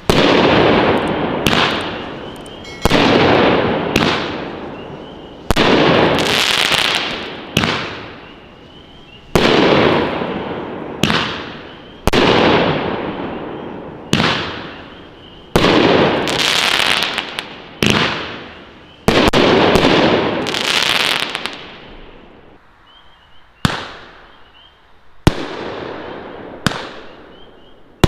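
A 9-shot, 200-gram consumer firework cake firing. Sharp bangs come one to two seconds apart, each followed by a long fading crackle as the golden crown and crackle shells break. There is a short lull about four-fifths of the way through, then the bangs resume.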